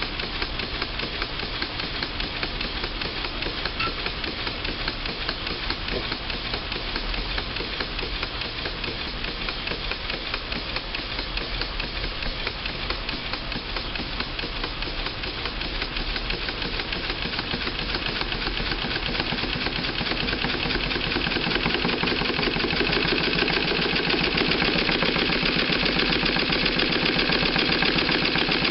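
Small model overhead-crank engine running, a steady rapid mechanical clatter that grows louder after about twenty seconds.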